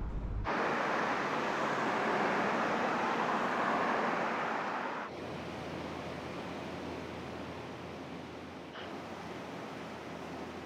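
Hot wok in a Chinese restaurant kitchen sizzling with a loud hiss that starts suddenly about half a second in and eases to a softer steady hiss about five seconds in.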